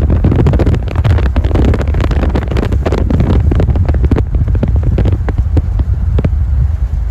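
Strong wind gusts buffeting the microphone: a loud, continuous low rumble broken by many short pops.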